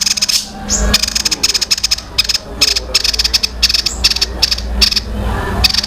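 Songbird singing fast runs of sharp repeated notes, a rapid 'tembakan' rattle-like burst of song that stops and restarts a few times, over a steady low hum.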